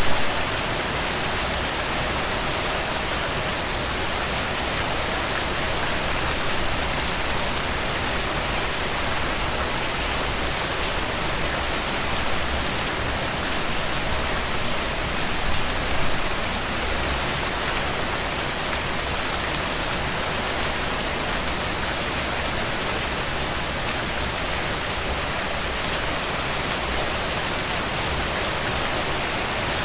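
Steady rain falling on a tent, with scattered faint ticks and a brief swell in level near the start and another about halfway through.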